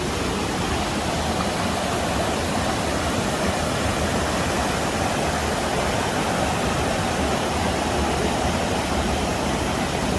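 Steady rush of a waterfall and creek, an even, unbroken wash of water noise.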